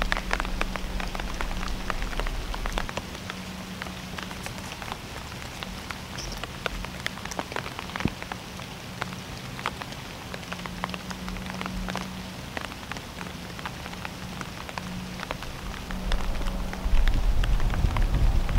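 Rain falling on the woods, many drops tapping irregularly, with a low rumble building near the end.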